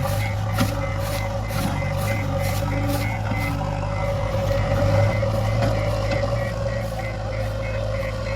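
Heavy diesel machine's engine running steadily while its reversing alarm beeps repeatedly, about two to three beeps a second.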